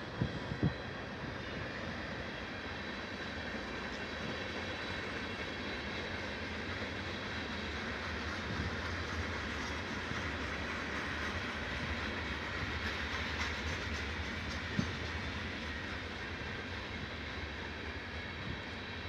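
Freight train rolling past on the rails: a steady rumble and rush of wheels on track, with a couple of sharp knocks about half a second in and another one near the end.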